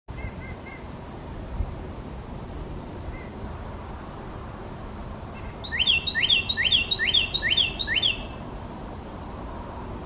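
A songbird singing a loud song of about six quickly repeated rising phrases, a little past halfway, after a few faint short chirps near the start.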